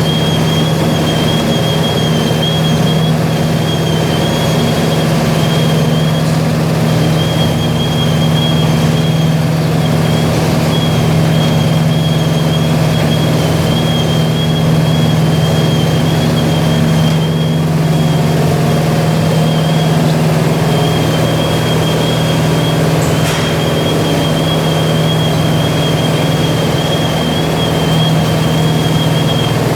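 Industrial vibrating-discharge vortex washing machine running: a steady low hum under a broad rush of noise, with a thin high whine that wavers and drops out briefly every few seconds.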